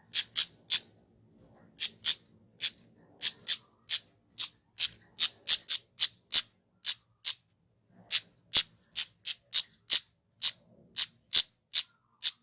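Kemade (a flowerpecker) calling: a run of short, sharp, high-pitched notes, two or three a second, with a couple of brief pauses.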